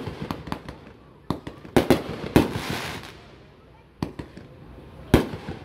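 Aerial firework shells bursting overhead: a string of sharp bangs spaced roughly a second apart, with a spell of crackling after the bang about two and a half seconds in.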